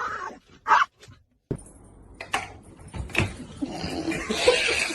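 A dog barking a few short times.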